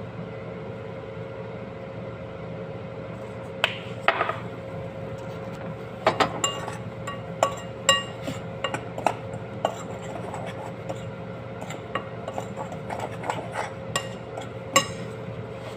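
A spoon clinking and knocking irregularly against a bowl as the dry coating mix is stirred, some strikes ringing briefly. A steady hum runs underneath.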